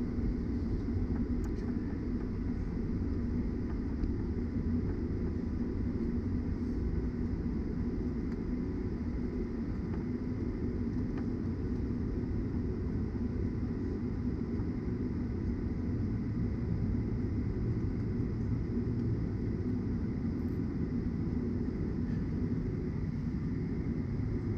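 Cabin noise inside a Boeing 737-900ER on the ground: a steady low rumble of the airliner's engines and airframe at taxi, with a faint steady high whine over it.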